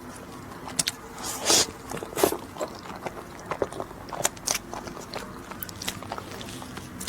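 Close-miked eating sounds: scattered bites and chewing, most likely of a snow-skin mochi (xue mei niang), with the two loudest bites about one and a half and two seconds in.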